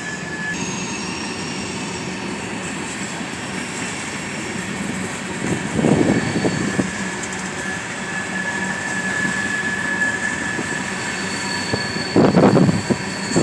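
A long train rolling past close by: a steady rumble of wheels on the rails, with thin, high wheel squeals held for seconds at a time. Louder bursts come about six seconds in and again near the end.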